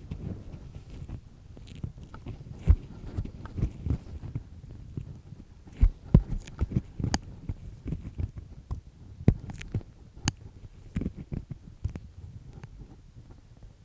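An ear pick scraping inside an ear canal, heard very close: irregular crackly scratching and rubbing over a low rumble, with a few sharp clicks scattered through it.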